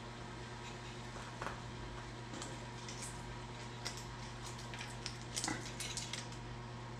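Light metallic clinks and taps of hand tools and parts being handled while an excavator ram is being removed, several scattered clicks with a small cluster about five and a half seconds in, over a steady low hum.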